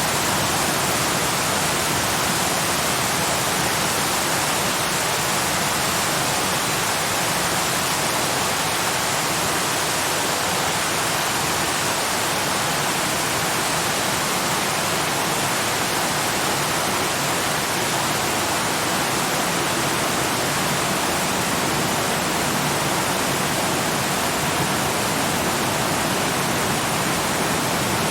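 Waterfall: a steady, even rush of falling water with no changes or separate splashes.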